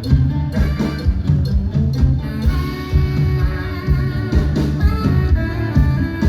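Live band music: drum kit keeping a steady beat under guitar and other sustained instrumental lines, with no singing.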